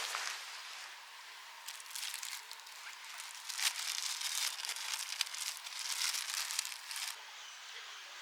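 Crinkling, rustling handling noise in irregular bursts, starting about two seconds in and stopping about a second before the end, over a steady hiss.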